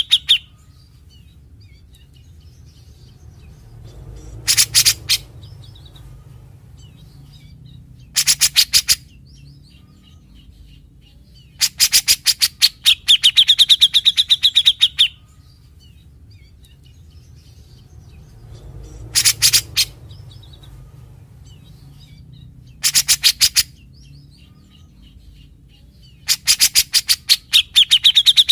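Grey-cheeked bulbul (cucak jenggot) calling in short bursts of rapid, rattling chatter (its typical 'besetan'), some bursts ending in a drawn-out high note, with pauses of a few seconds between them. A low steady hum runs underneath.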